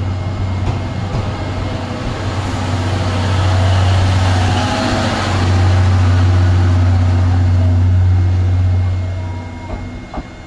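Train of passenger coaches rolling past close by: wheel-on-rail running noise over a steady low drone, building through the middle and fading near the end as the last coach pulls away.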